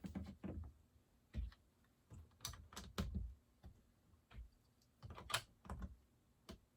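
Plastic Lego bricks clicking and clattering as they are handled and pressed into place, in faint, irregular clicks.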